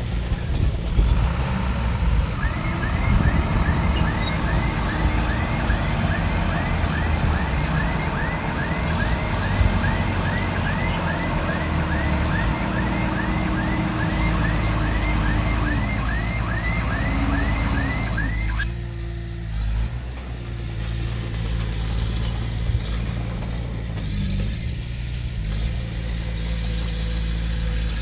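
Heavy-equipment diesel engine running steadily, with a regular rising chirp about twice a second through the first two-thirds that stops abruptly.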